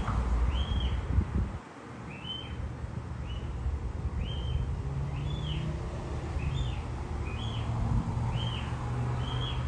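A bird calling, one short chirp repeated about once a second, over a low rumble.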